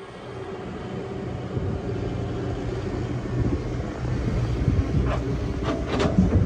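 Excavator engine running steadily, with a series of short knocks and scrapes starting about five seconds in, typical of the machine's bucket or tracks working against earth and stone.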